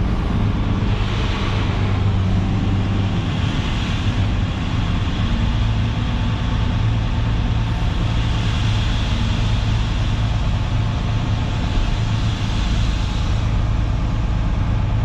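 Dump truck's diesel engine running steadily under throttle with the PTO engaged, driving the hydraulic hoist while the raised bed dumps a load of gravel chips.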